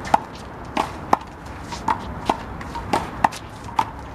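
Rubber handball being slapped by hands and bouncing off the wall and court during a rally: a string of sharp smacks, about two a second, each with a short ping.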